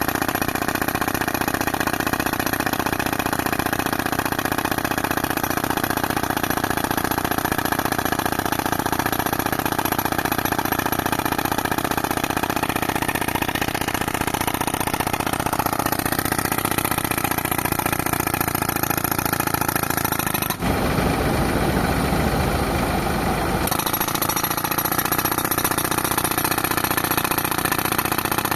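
Tractor engine running steadily, driving an air compressor for pneumatic rock breaking. About three-quarters of the way in, a heavier, low, rapid pounding takes over for about three seconds, then the steady running returns.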